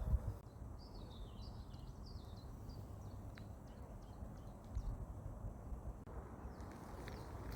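Birds chirping outdoors, a run of short high calls in the first couple of seconds, over a steady low rumble with louder low thumps at the start and about five seconds in.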